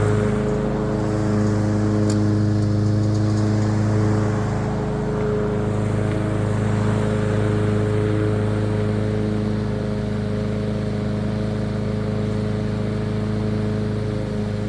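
Masport Rotarola walk-behind rotary mower's petrol engine running steadily under load while mowing grass.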